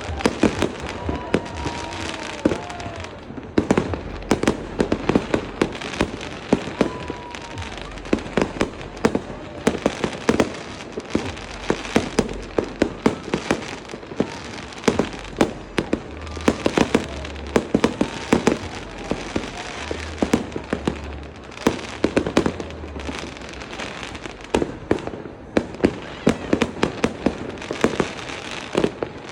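Aerial fireworks going off: a dense, irregular run of bangs and crackles, several a second, with a few whistles gliding down in pitch near the start.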